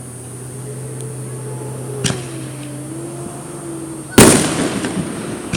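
Aerial fireworks going off: a sharp crack about two seconds in, then a much louder bang about four seconds in, followed by about a second of crackling.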